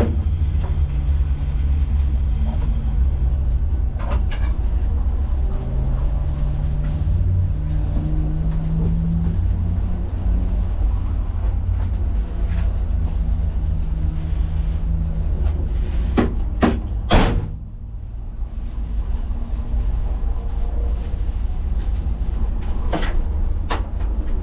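Cabin sound of a BMW E30's M20B25 straight-six running at low speed, a steady low rumble whose pitch rises a little and settles. A few sharp knocks and clunks come about two-thirds of the way through, after which the sound gets quieter.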